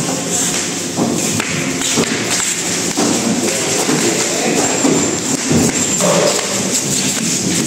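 Thuds and knocks of heavy speaker hardcases being unloaded and set down, several separate impacts over a steady background of music.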